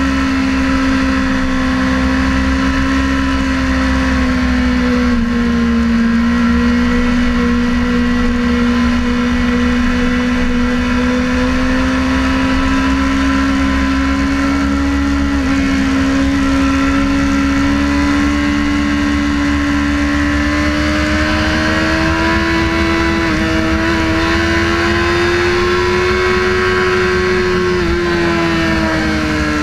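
Sportbike engine running at speed on a track, its note holding steady, then climbing slowly over the later part and dropping again near the end, over a constant low rush.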